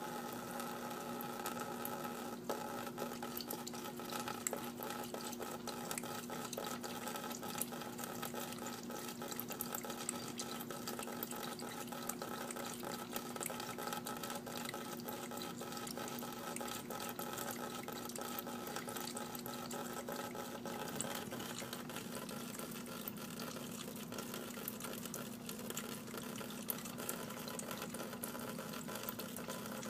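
Water running steadily, with a steady hum beneath it and many small splashing ticks.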